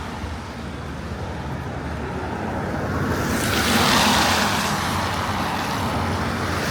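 Road traffic on a wet road: a low rumble, with a car passing about three to four seconds in, its tyres hissing on the wet surface as it goes by.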